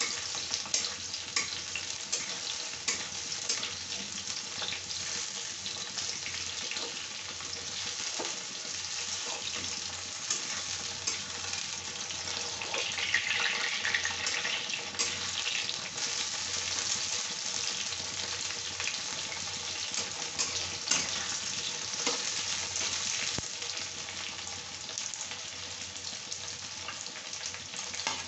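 Parwal (pointed gourd) and potato pieces frying in hot oil in a kadhai: a steady sizzle full of small crackles and pops. A metal spatula scrapes and clatters against the pan as it stirs them at times.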